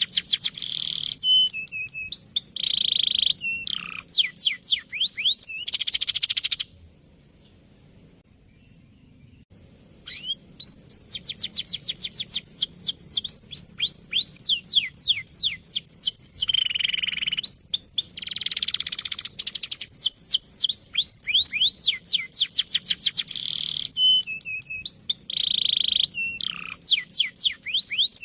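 Male domestic canary singing long runs of fast, repeated downward-sweeping trills broken by buzzy rolling phrases. It stops for about three seconds some six seconds in, then sings on.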